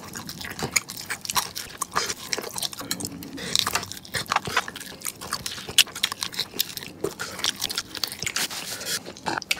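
Chewing and crunching of crispy fried chicken wings, with many irregular crisp crunches and mouth sounds.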